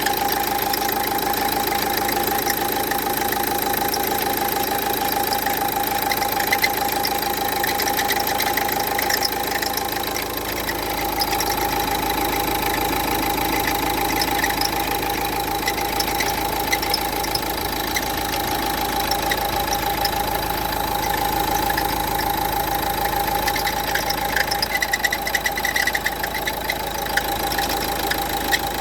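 Renault Duster 1.5 dCi diesel engine idling steadily with a continuous high-pitched whine. This is the strange noise put down to a worn alternator pulley.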